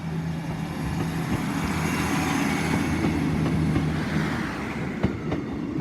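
Class 150 diesel multiple unit moving through the station: a steady diesel engine drone with wheel and rail noise that builds to its loudest past the middle, the engine tone dropping away near the end, followed by a few sharp clicks.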